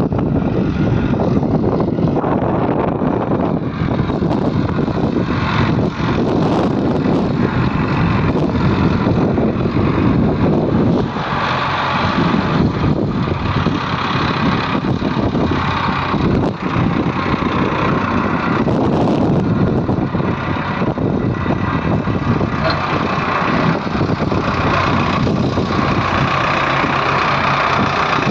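Diesel engine of a JCB 3DX backhoe loader running steadily as it loads soil, its note swelling in stretches of a few seconds.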